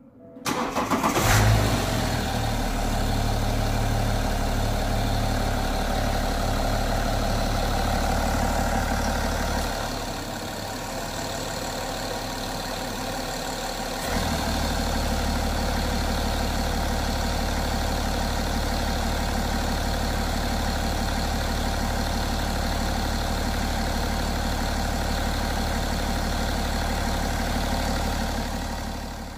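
BMW N57 three-litre straight-six diesel in a 330d starting about a second in and settling into a steady idle, a little quieter for a few seconds near the middle. It is running with its stretched timing chain newly replaced.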